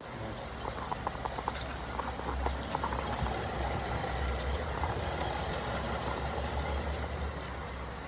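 2009 Chevrolet Traverse's 3.6-litre V6 running at idle with a steady low hum, with a few light ticks in the first couple of seconds.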